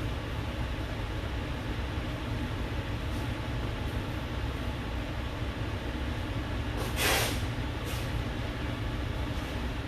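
Steady low background rumble, with a short hiss about seven seconds in and a fainter one about a second later.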